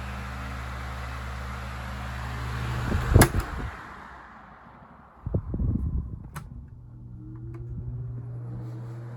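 Vintage 16-inch Tozai table fan running on high, switched off with a sharp click about three seconds in, its air noise dying away. Then a vintage 16-inch Galaxy table fan is switched on at high speed with a few clunks, and its motor hum rises as it spins up.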